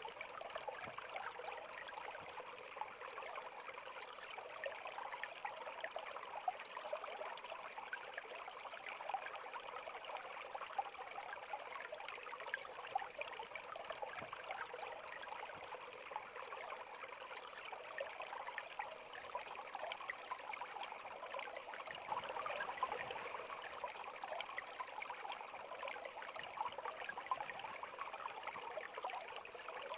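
River water flowing over stones, a steady rushing and babbling with many small splashes.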